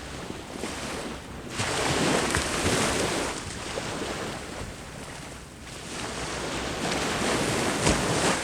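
Sea waves breaking and washing up the shore in two surges: one about a second and a half in, and another building from about six seconds to a peak near the end.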